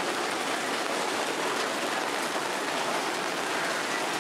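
Heavy rain pouring steadily onto a wet paved street, an even hiss with no breaks.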